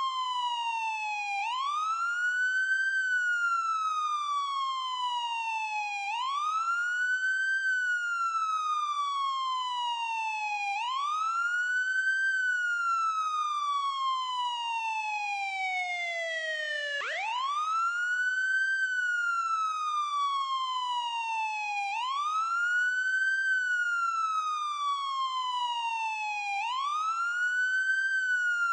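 Ambulance siren wailing: each cycle rises quickly, then glides slowly down in pitch, repeating about every four to five seconds. Near the middle, one cycle falls lower than the rest before it sweeps back up.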